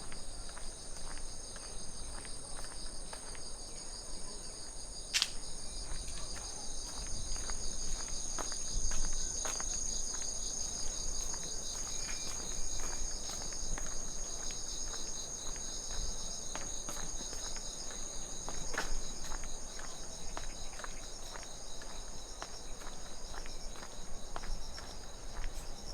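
Crickets chirping in a steady, many-voiced chorus of high, fast-pulsing trills, with scattered footsteps and light clicks from walking along the trail.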